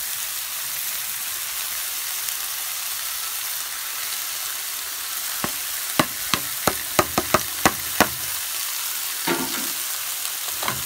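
Chopped onions and sweet peppers sizzling in hot grapeseed oil over medium-high heat: a steady frying hiss. About halfway through comes a quick run of about eight sharp taps.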